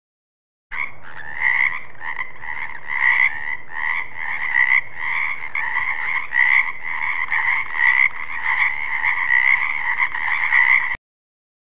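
Frogs croaking in a continuous run of rapid, evenly repeated calls that starts just under a second in and cuts off abruptly near the end.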